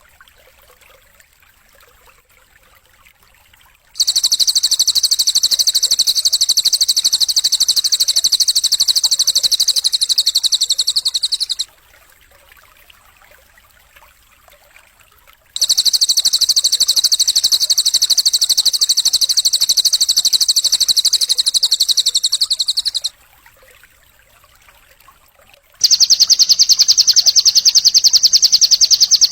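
A songbird singing long, rapid, even trills, three bursts of about seven seconds each with short pauses between them, the last one higher-pitched: recorded song used as a masteran for training caged songbirds.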